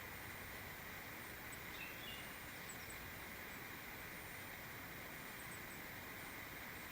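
Faint, steady outdoor background hiss with a few brief, high bird chirps about two seconds in.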